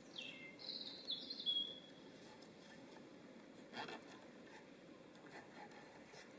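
A bird calling: a few short whistled notes falling in pitch within the first two seconds. A single brief knock comes near the middle, over a faint steady background.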